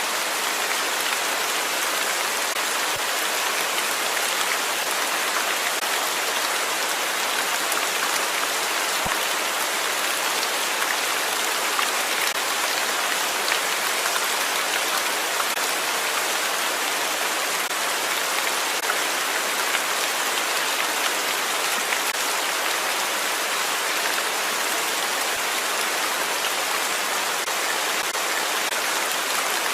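Steady rain falling on a surface: a continuous hiss of dense drops, with a few single drop ticks standing out.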